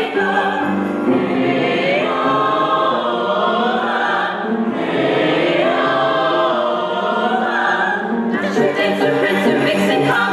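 Music: a choir singing long, sliding notes over a steady accompaniment, with a busier beat coming back in about eight seconds in.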